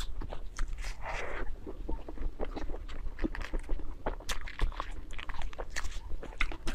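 Close-miked mouth sounds of a person chewing a filled pastry bun: a steady run of wet smacking clicks. It is picked up on a clip-on microphone.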